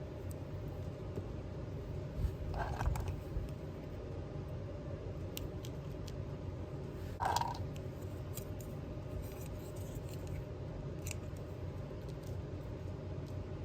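Small tabletop crafting sounds: scattered light clicks and taps, with two short snip-like sounds a few seconds apart, over a steady low hum.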